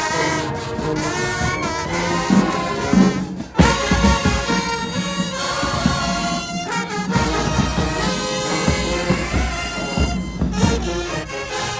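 High school marching band playing, with brass carrying the tune over drums. The music breaks off briefly about three and a half seconds in, then comes back louder.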